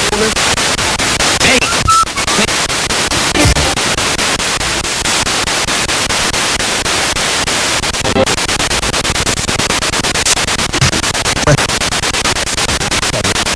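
Spirit box radio sweeping rapidly through stations: loud static hiss chopped into quick, even pulses, with brief snatches of broadcast voices or tones breaking through now and then.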